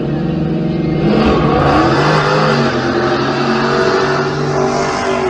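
Car engines revving hard, their pitch rising and falling. A broad loud hiss joins about a second in.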